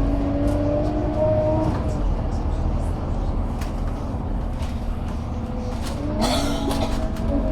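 Scania K280UB bus with a ZF Ecomat 6HP604 automatic gearbox: the gearbox whines at two steady pitches over the diesel's low running, and the whine fades out about two seconds in. Near the end a short hiss comes, then the whine returns, rising briefly and then holding steady. This singing gearbox whine is the sign of a fault that was later fixed.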